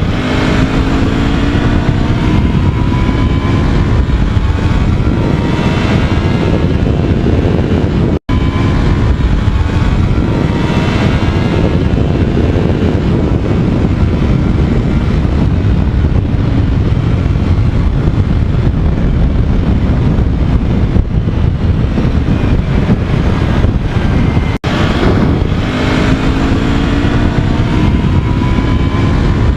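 Motorcycle engine running while riding, with wind rushing over the microphone; the engine pitch rises and falls at times. Two brief dropouts.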